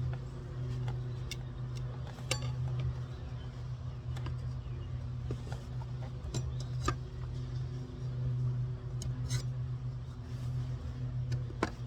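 Scattered light metallic clinks and taps from tire irons working a tyre onto a dirt bike's rear wheel rim, over a steady low hum.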